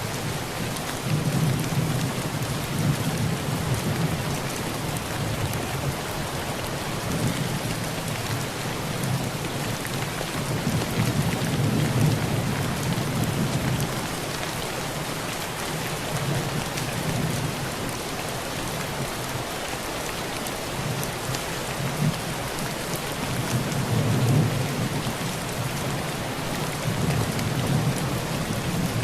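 Heavy rain drumming steadily on a tin roof, with low rolls of thunder swelling and fading several times.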